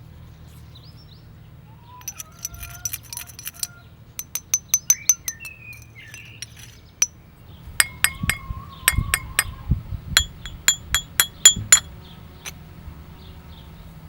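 Pieces of hard, twice-fired glazed ceramic knocked together, giving quick runs of sharp, ringing clinks in four bursts. Birds sing in the background.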